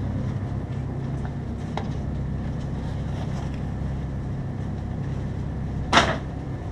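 Steady low machine hum, as of refrigeration compressors running, with one short sharp knock about six seconds in that is the loudest sound.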